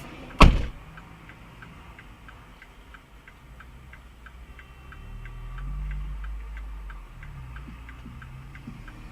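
A sharp thump about half a second in, then a car's turn-signal or hazard-light relay ticking steadily, roughly three ticks a second, over a low engine hum that swells midway.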